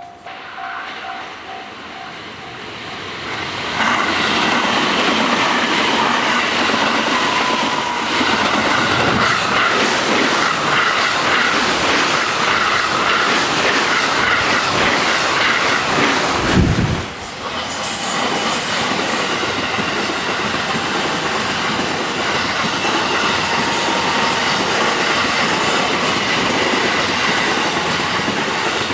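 Japanese level-crossing bell ringing at the start, then a JR West commuter electric train runs through the crossing at speed: continuous rolling wheel noise with clickety-clack over the rail joints. Midway there is a low thump and a brief drop in level before the rolling noise carries on.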